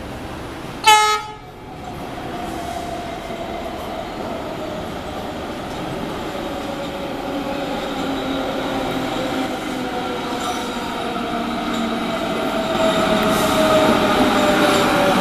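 MARTA rapid-transit train sounding one short horn blast about a second in, then approaching the platform and growing steadily louder, with a whine that slowly falls in pitch as it slows to stop.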